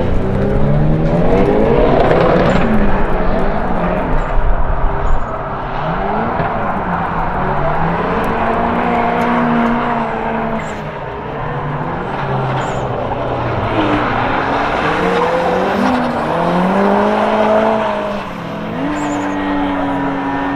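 Cars drifting on track: engines revving up and down over and over while the tyres squeal and skid.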